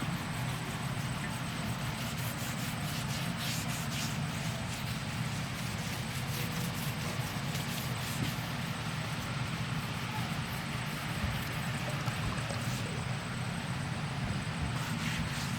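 A backhoe loader's diesel engine running with a steady low rumble, mixed with water noise and scattered light clicks.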